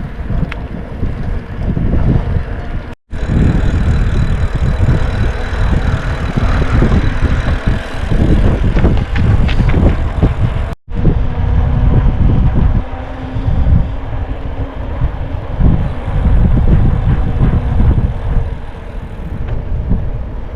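Loud, gusting wind rumble on the microphone, cutting out briefly twice.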